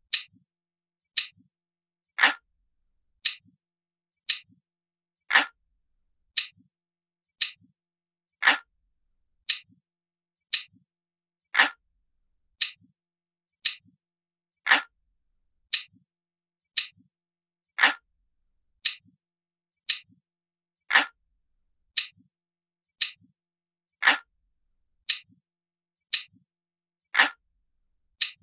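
Glass-like clock ticking sound of a countdown timer: crisp, sharp ticks about once a second, every third tick louder.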